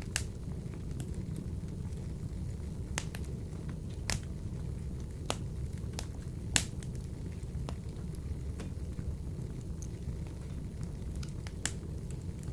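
Wood fire burning in a wood-burning stove: a steady low rumble of the flames with scattered sharp crackles and pops, the loudest about six and a half seconds in.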